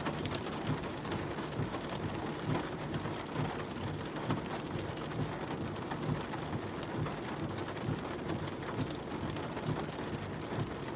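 Heavy monsoon rain drumming steadily on a car, a dense patter of drops heard from inside the cabin.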